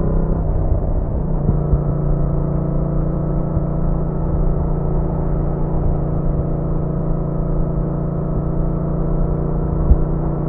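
Yamaha MT-07's parallel-twin engine running at a steady road speed. Its note drops a little in pitch about half a second in, then holds steady under a low rumble.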